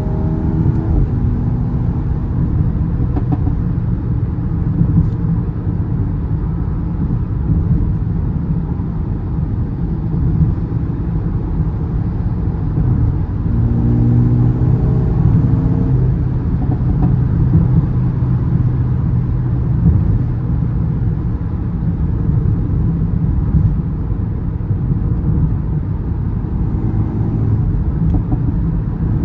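Mercedes-AMG A35's 2.0-litre turbocharged four-cylinder engine pulling the car along with a low rumble. About halfway through, the engine note climbs in pitch and then holds steady.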